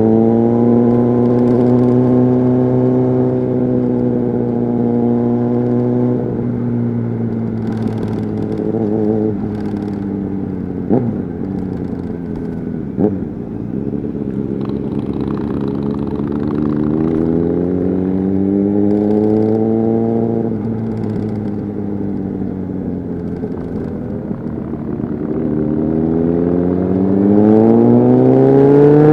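Honda CBR600RR inline-four with a Leo Vince aftermarket exhaust, heard on board while riding. The engine note holds steady, drops away for several seconds with two sharp clicks, rises and falls again, then revs up hard near the end.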